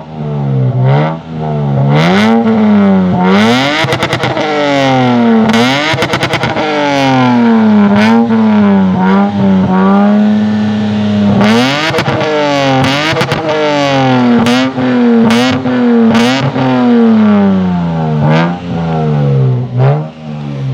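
Lexus IS200's 2.0-litre straight-six revved over and over through a silencer-delete exhaust, its pitch climbing and dropping with each throttle blip and held steady for a moment about ten seconds in. The sound is full and loud.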